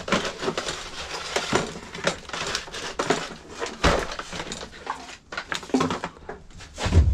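Metal clinking and clattering as tools and magnetron parts are handled, with a heavier knock about four seconds in.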